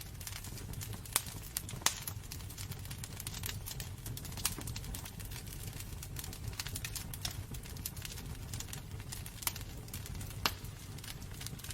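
Wood burning in a fireplace, crackling and popping irregularly, with a few sharper pops about a second in, at two seconds and near the end, over a low steady rumble of the fire.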